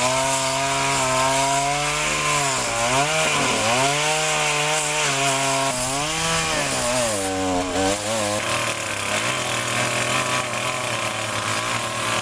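Chainsaw running at high revs and cutting into wood, its engine note dipping sharply each time the chain bites under load and then picking back up. About eight seconds in it settles to a lower, steadier note.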